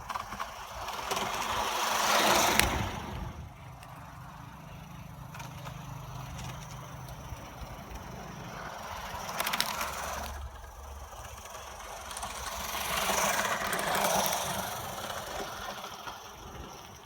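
BR Standard Class 4MT tank steam locomotive No. 80079 working, its exhaust and steam noise swelling and fading in slow surges over a low steady hum, loudest near the start and again about two-thirds through.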